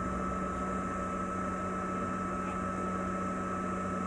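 Steady machine hum with a constant high-pitched whine over it, unchanging throughout.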